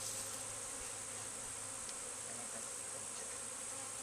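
A honeybee swarm buzzing in a steady hum of many bees while being hived.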